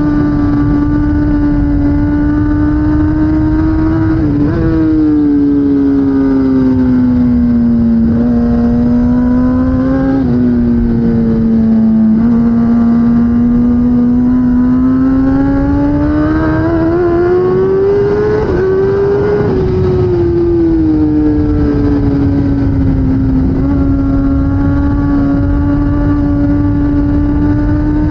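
2016 Kawasaki ZX10R superbike's inline-four engine running hard at racing revs, with a steady rush of noise beneath it. Its pitch shifts with throttle and gear changes: sudden dips about 4 and 10 seconds in, a long climb from about 12 to 19 seconds, then a drop and a steadier note.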